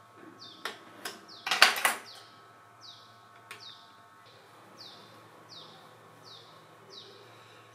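A small bird chirping over and over, short falling chirps about three every two seconds. Plastic discs click and tap against each other and the table, loudest in a quick cluster about one and a half to two seconds in.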